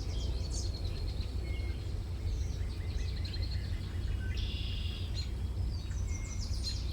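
Small birds chirping and trilling, many short calls, over a steady low rumble of background noise.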